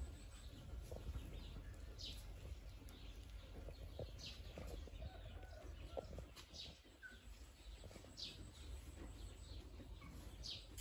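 A bird calling: a short, high chirp repeated about every two seconds, faint over a low, steady rumble.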